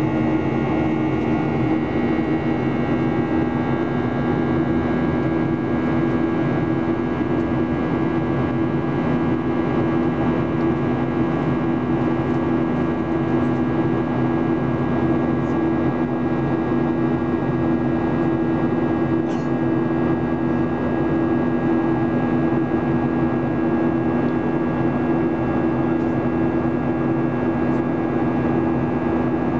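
Steady in-flight cabin noise of a Boeing 737-800 with CFM56-7B engines: a constant rush of airflow with a steady two-tone engine hum in it.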